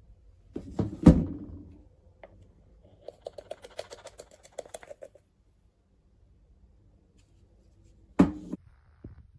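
Two sharp knocks about a second in, then a quick rattle of light clicks, and another sharp knock near the end: objects being handled and set down.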